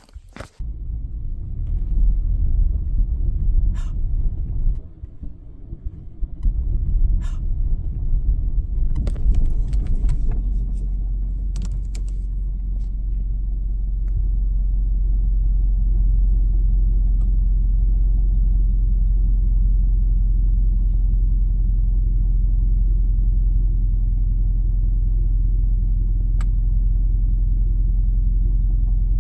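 Car driving: a steady low rumble of engine and road noise, with a few sharp clicks or knocks in the first dozen seconds and one more near the end.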